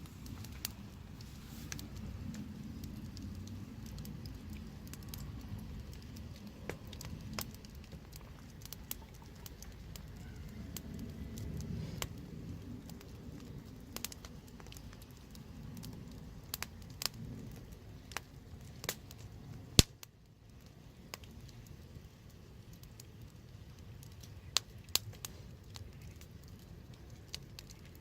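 Wood fire burning: a low steady rumble of flames with scattered sharp crackles and pops, and one loud pop about twenty seconds in.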